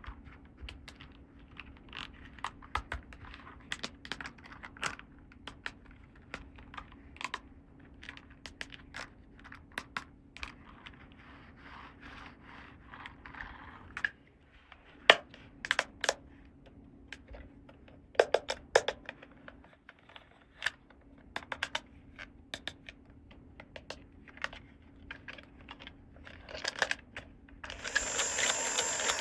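Small plastic toy pieces being handled, unpacked and set down, making irregular light clicks, taps and scrapes. Near the end a louder, denser rattling starts.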